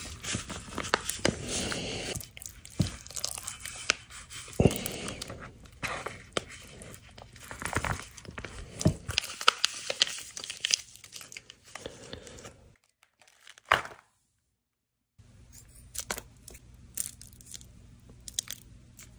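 Close-miked eating: irregular crunching, tearing and chewing sounds of a person biting into and chewing food. The sound drops out to dead silence for about two seconds near the two-thirds mark, then the crackles resume more quietly.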